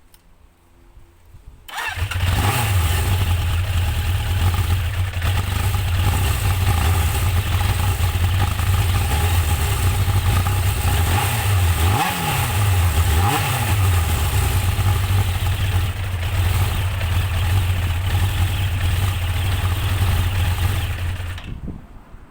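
Motorcycle engine starting about two seconds in and running steadily. Its revs dip briefly twice about halfway through and recover. The engine shuts off suddenly near the end.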